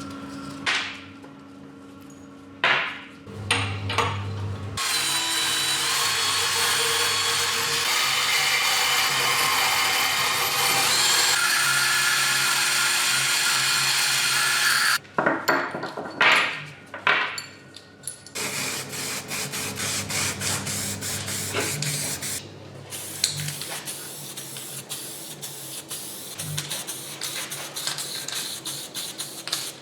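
Workshop tool work in several short bits: a few clicks, then a loud steady whirring hiss of a power tool for about ten seconds that cuts off sharply. A few knocks follow, then quick repeated scraping and rubbing strokes.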